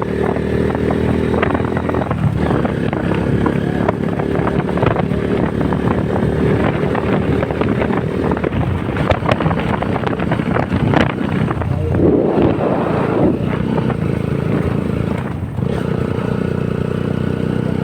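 Honda CBR150R's single-cylinder four-stroke engine running at a steady pace while riding, with a stretch of clattering, rougher rumble for several seconds in the middle.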